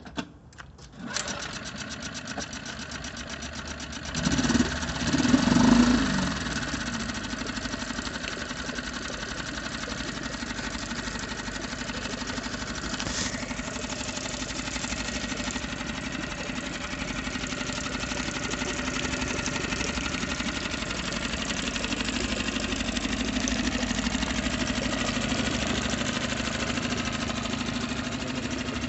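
Honda 5 hp four-stroke outboard motor starting about a second in, revving up and back down briefly a few seconds later, then running steadily at idle.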